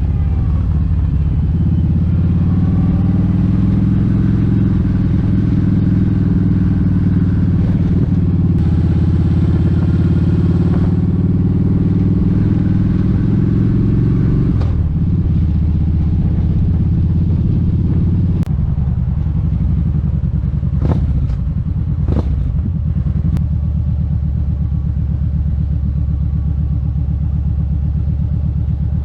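Kawasaki Vulcan 1700 Vaquero's V-twin engine running under way, its pitch creeping up slowly and then stepping down twice, about halfway through and again a few seconds later.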